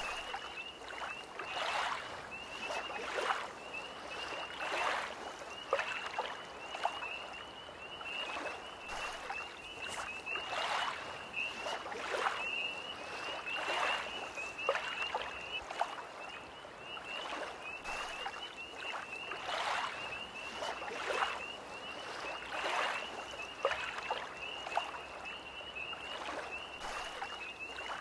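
Small lake waves lapping against the shore every second or two, under a steady high trilling chorus of tree frogs.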